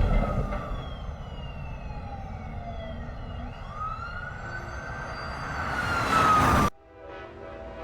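Wailing, siren-like tones sliding in pitch: several fall slowly at first, then one rises and falls. They grow louder until they cut off abruptly about a second before the end.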